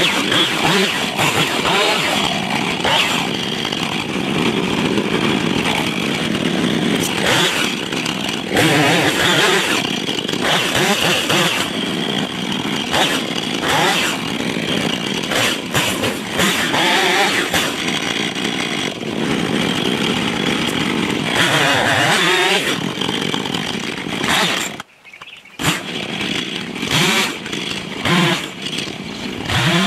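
Husqvarna chainsaw running and cutting through a dead pine trunk, its engine note rising and falling under load. The sound drops out briefly near the end, then resumes.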